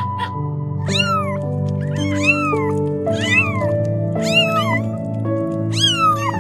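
A cat meowing over and over: short calls that rise and then fall in pitch, several in quick pairs. Background music with held notes plays underneath.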